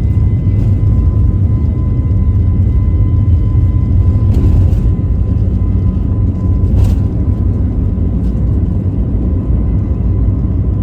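Airbus A320neo's CFM LEAP-1A engines at takeoff power, heard from inside the cabin: a loud, steady rumble with a thin steady whine over it. A few brief rattles come about four and seven seconds in.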